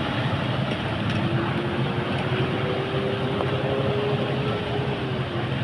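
Motor vehicle engine running over a steady wash of street noise. A faint drawn-out tone comes in about a second in, rises slightly and holds for about four seconds.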